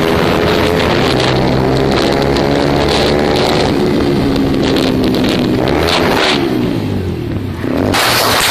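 Motorcycle engine running hard, its pitch rising and falling with the throttle. About eight seconds in, a loud rushing noise cuts in.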